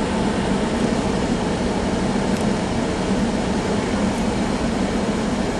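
Steady rumble and hiss of a vehicle on the move, with an even low hum and no rise or fall in pitch.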